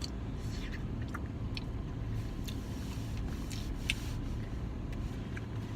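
Steady low hum of a parked car's idling engine and heater. Scattered faint clicks and scrapes of eating from an ice cream cup sit over it.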